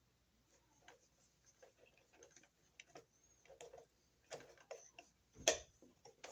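Faint, irregular small clicks and taps of copper wires and a plastic wire nut being handled while a splice is taken apart and redone, growing busier after the halfway point, with one louder knock about five and a half seconds in.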